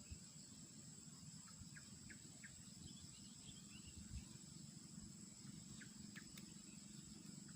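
Faint outdoor field ambience: a steady high insect drone, like crickets, with a few short faint chirps about two seconds in and again near six seconds, over a low rumble.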